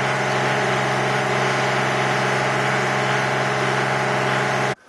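Gas snowblower engine running at a steady speed, with a wide rushing noise over it. It cuts off abruptly near the end.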